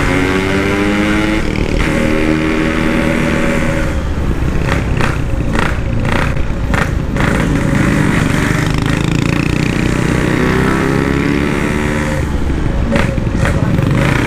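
Yamaha RX-King 135 cc two-stroke single-cylinder motorcycle engine running loud through an aftermarket 'standart belek' exhaust. It accelerates with its pitch climbing over a couple of seconds, twice, and goes choppy in the middle and near the end as the throttle comes off.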